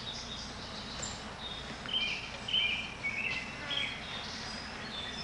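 Natural outdoor ambience: a steady soft hiss with a bird giving a run of short, high chirps in the middle of the stretch.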